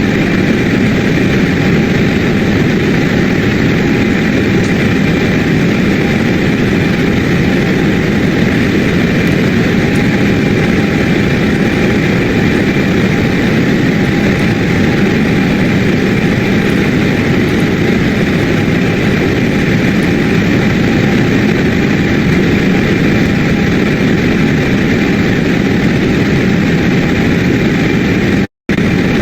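Airbus A320neo's jet engines heard from inside the cabin during takeoff: a steady, loud rush with a constant high whine. The sound drops out for a moment near the end.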